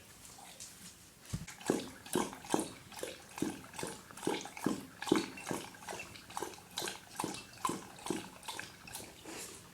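A dog lapping water from a bowl in a steady rhythm of wet laps, about two to three a second. The laps are faint at first and grow louder about a second and a half in.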